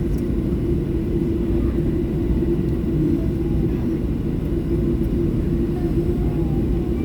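Steady low cabin rumble inside a Boeing 737 on the ground before takeoff, with a constant hum running through it and no change in level.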